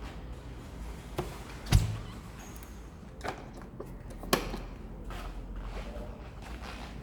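Four separate knocks and clicks over a low background rumble; the loudest thunk comes a little under two seconds in.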